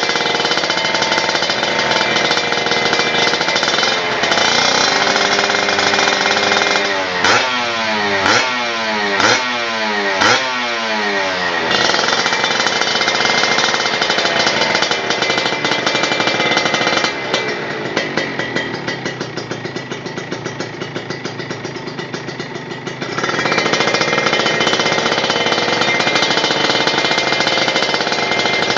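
An engine idling through a racing muffler, blipped four times about seven to ten seconds in, each rev dropping quickly back to idle. From about seventeen seconds it runs quieter and uneven for several seconds, then settles back into a steady idle.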